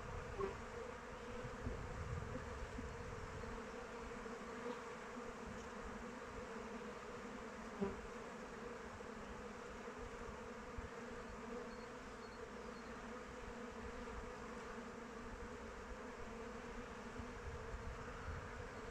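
Honeybees flying around their hive, a steady many-bee buzzing hum, with a couple of short clicks about half a second and about eight seconds in.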